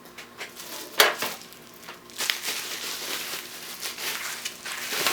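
Plastic packaging and bubble wrap crinkling and rustling as they are handled and pushed aside, with a sharp knock about a second in.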